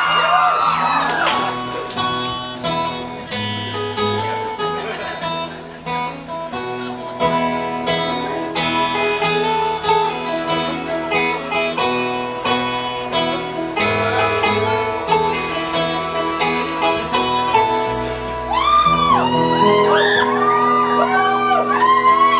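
Live acoustic band playing an instrumental intro of quick picked guitar and plucked strings. The audience is cheering at the start, and whoops rise over the playing near the end.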